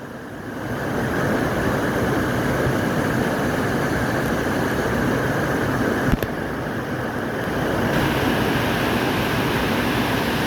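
Steady rush of falling water from a waterfall, with a short click about six seconds in.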